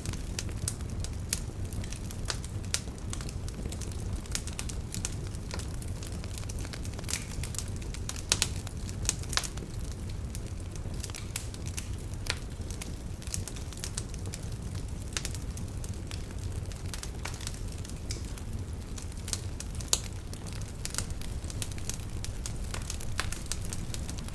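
Wood fire of burning logs in a fireplace, crackling and popping in sharp irregular snaps over a steady low rumble of the flames.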